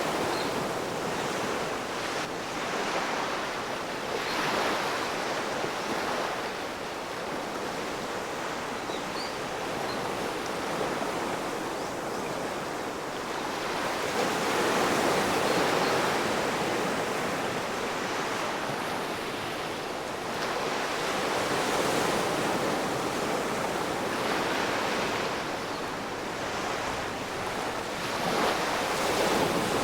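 Ocean waves breaking and washing on the shore in a continuous rush, swelling louder every few seconds as each wave comes in.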